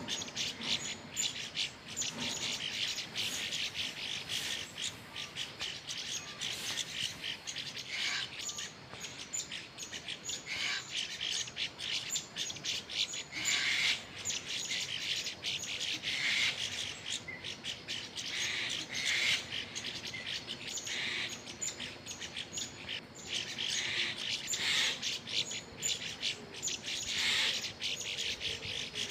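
Many small birds chirping, short calls following one another rapidly and overlapping without a break.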